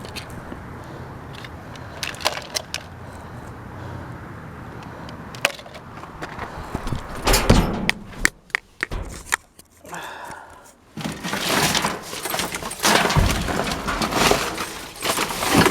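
Debris being rummaged through and shifted in a dumpster: scattered clicks and knocks, a loud crash about halfway through, and busier clattering near the end.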